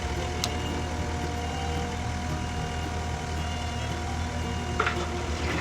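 Skid steer engine running steadily while its forks handle logs, with a sharp click about half a second in and a short knock near the end.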